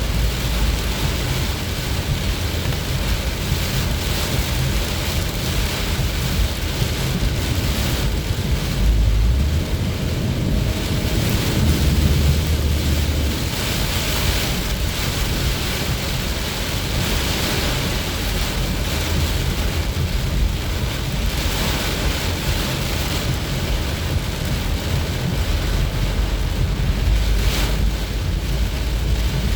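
Heavy rain pouring down on a moving car, a steady hiss over the low rumble of the car on the road.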